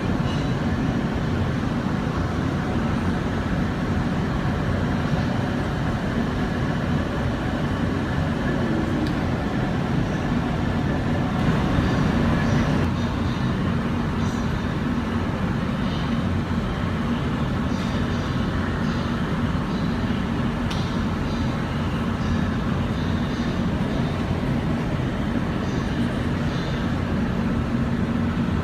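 Steady cabin hum inside an Airbus A320 airliner, its engines and air system running before takeoff.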